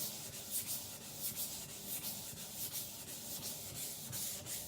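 Steel cleaver blade ground nearly flat on a wet whetstone, thinning the edge: a gritty scraping hiss in repeated back-and-forth strokes, about two or three a second.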